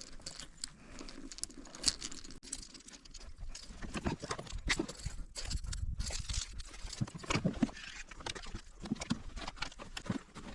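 Irregular clicks and knocks of fishing gear being handled aboard a kayak, with a few duller thumps against the hull.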